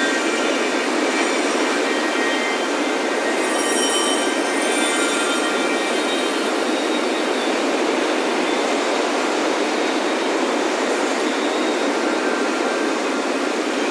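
Ocean surf breaking on a beach, a steady unbroken rush of waves, with wind chimes ringing lightly over it in scattered high tones, a brighter cluster about four seconds in.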